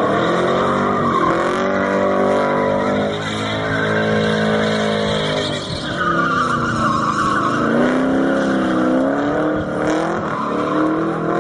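Car engine revving hard, its pitch dipping and climbing again several times, with tyres squealing over it.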